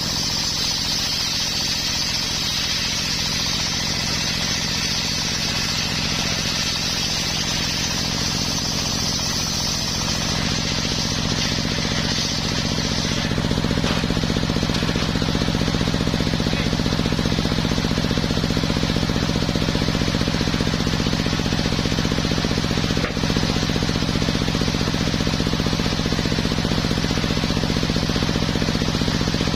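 Homemade engine-driven circular sawmill running steadily on coconut wood, a constant machine hum under a rough rattle. About thirteen seconds in, a high hiss drops away and the low hum gets louder.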